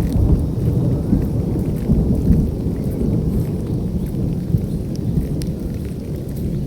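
Heavy rain falling, a dense, steady low rush with scattered sharp drop ticks, easing slightly near the end.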